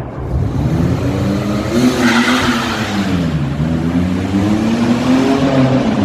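Car engine revving, its pitch climbing, dropping and climbing again, with a burst of hissing noise about two seconds in.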